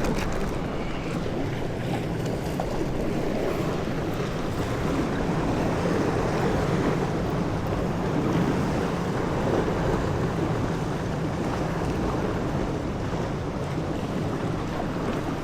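Steady wind buffeting the microphone over sea water washing against a small boat.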